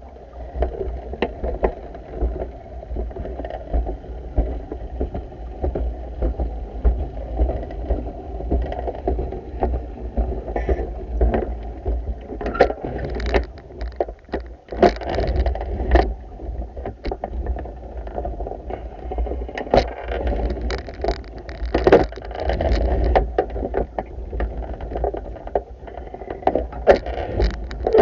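Pool vacuum being worked through the water: sloshing and a steady low rumble, with frequent knocks and splashes.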